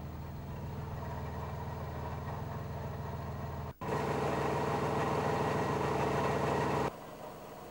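Old, worn-out car engine idling steadily. About four seconds in there is a brief break, then the idle is louder and harsher for about three seconds before dropping back to a quieter idle near the end.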